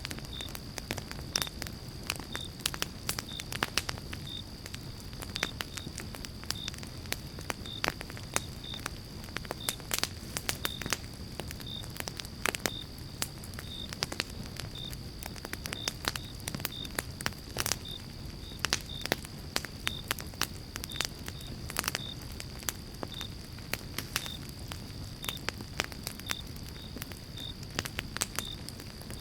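Pine-log campfire crackling and popping steadily, with many small sharp pops over a low steady rush of flame. A faint high-pitched chirp repeats about twice a second in the background over a steady high tone.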